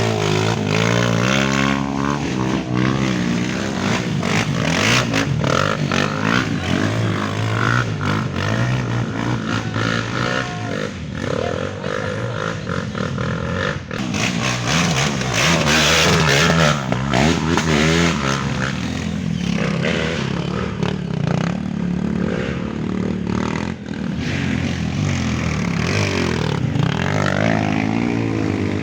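Several off-road trail motorcycles revving hard through mud, their engines rising and falling in pitch over one another.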